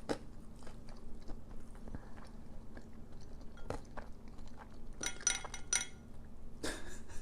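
Close-miked chewing of a fish fillet, with wet mouth sounds, small clicks and crunchy bites. A cluster of crunches comes about five seconds in and again near the end.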